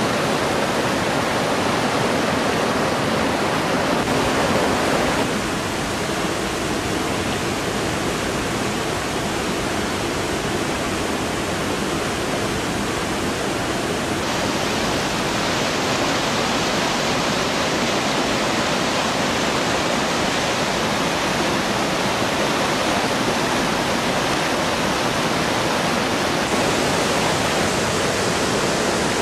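Rushing water of a mountain torrent and its waterfalls: a steady, dense rush whose tone changes abruptly three times, about five, fourteen and twenty-six seconds in.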